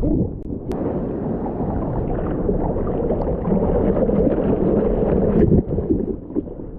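Muffled, continuous rush and gurgle of churning surf water around a waterproof POV camera, dipping briefly in level near the end.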